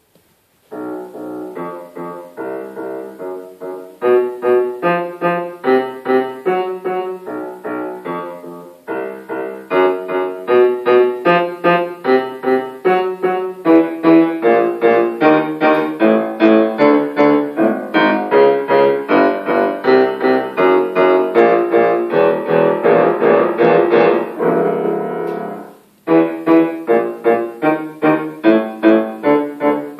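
Solo piano playing a composed piece in separate struck notes and chords. It begins softly about a second in and grows louder about four seconds in. The playing breaks off briefly a few seconds before the end, then starts again.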